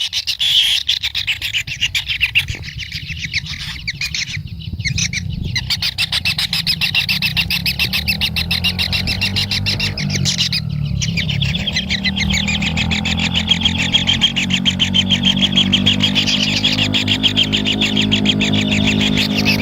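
Kingfisher chicks begging for food: a continuous, rapid churring chorus of calls, broken by two short pauses, over a low hum that grows toward the end.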